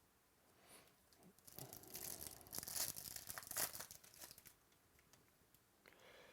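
Foil trading-card pack wrapper being torn open and crinkled for a few seconds, then a fainter rustle of handling near the end.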